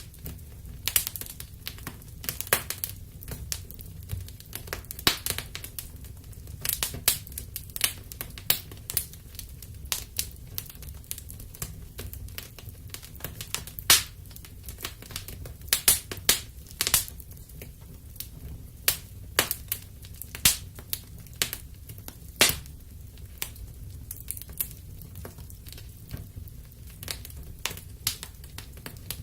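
Wood fire in a fireplace crackling: irregular sharp pops and snaps, several a second, over a steady low rumble from the burning.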